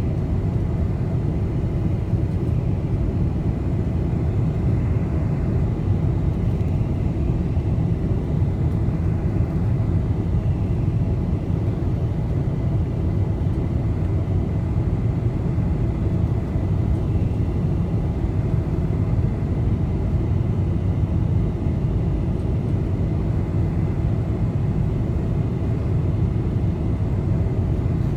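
Steady low rumble of a Boeing 747's engines and airflow heard inside the passenger cabin, unchanging throughout, with a faint steady high whine above it.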